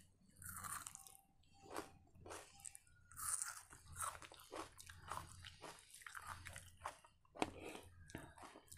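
Close-up mouth sounds of a person biting and chewing crunchy food, most likely a slice of raw onion, with irregular crisp crunches between quieter chewing.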